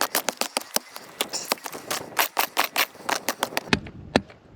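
A prospector's pick chipping into hard calcrete ground in rapid, even strikes, about six a second, thinning to a few single blows near the end.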